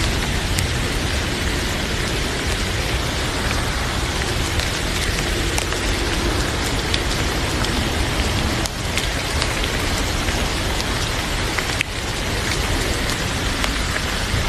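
Heavy rain falling steadily as a dense, even hiss, with a few faint sharp clicks scattered through it.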